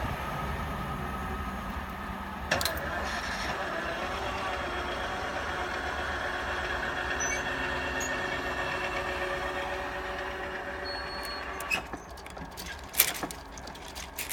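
Class 68 diesel-electric locomotive with its Caterpillar V16 engine running as the train passes and draws away, steady until it fades about 12 seconds in. A few sharp clicks sound about two and a half seconds in and near the end.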